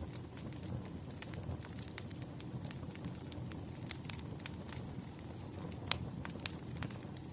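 Burning firewood crackling over a steady low rumble of flames, with frequent irregular pops and snaps, the loudest about six seconds in.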